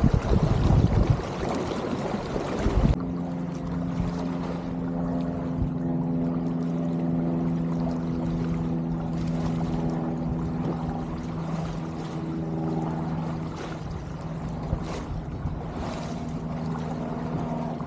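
A sailboat under way. For about three seconds wind rushes over the microphone, then it drops off suddenly, leaving water trickling along the hull and a steady low hum of unclear source. The hum fades out for a few seconds near the end and then returns.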